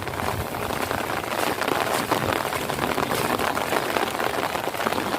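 Heavy rain falling steadily: a dense, even hiss of many drops striking the ground and standing water.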